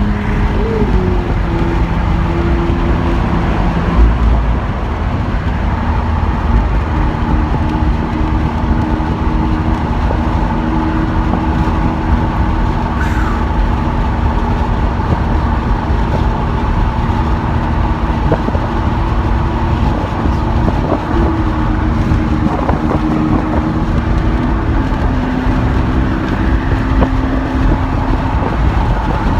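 Lamborghini Aventador SV's naturally aspirated V12 running at steady freeway cruise, heard from inside the car with a constant low road rumble. The engine note holds a steady pitch and steps down three times: about a second in, and twice in the last third.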